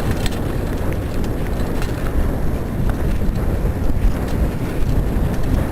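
Wind buffeting the microphone of a camera on a moving bicycle: a steady low rumbling noise.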